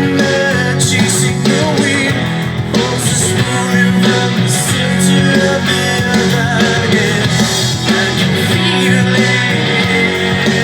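Rock song with singing and electric guitar, the guitar played through a Zoom G5n multi-effects pedal.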